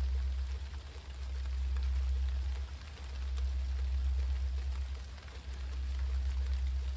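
Steady rain falling, over a strong low rumble that swells and eases every couple of seconds.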